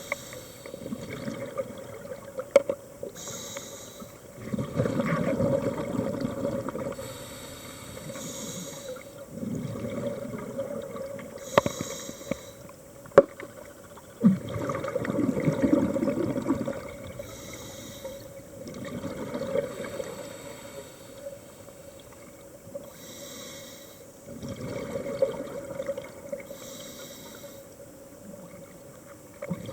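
A scuba diver breathing through a regulator underwater: a short hiss on each inhale, then a longer rush of exhaled bubbles, repeating about every five seconds. A few sharp clicks fall in between.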